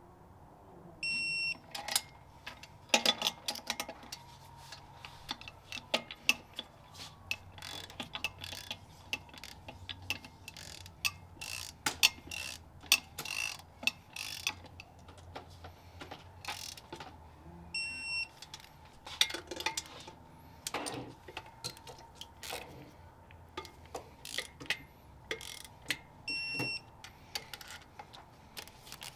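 Hand tools working on engine parts: ratchet clicks and metal clinks and knocks come irregularly throughout. A short, high electronic beep sounds three times.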